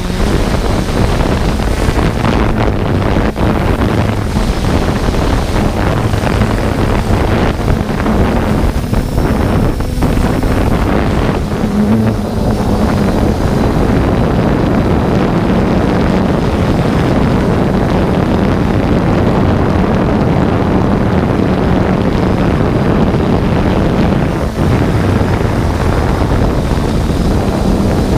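Steady rushing wind and rotor noise on a 3DR Solo quadcopter's onboard camera microphone, with a faint low motor hum under the rush of air.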